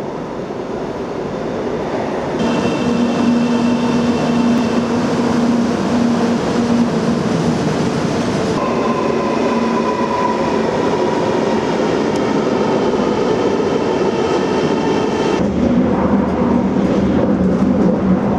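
Electric train running on rails: a steady rumble with a whine of motor tones that comes in about two seconds in and changes pitch twice.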